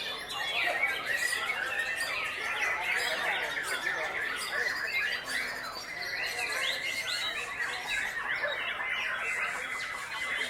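Several white-rumped shamas singing at once, a dense tangle of overlapping whistles, chirps and harsh notes.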